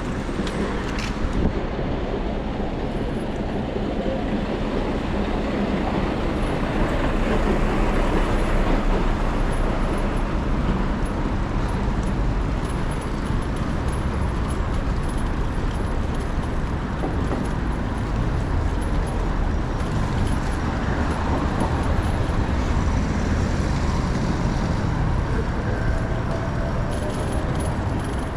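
City street traffic noise: cars passing with a steady low rumble, a little louder about a third of the way in.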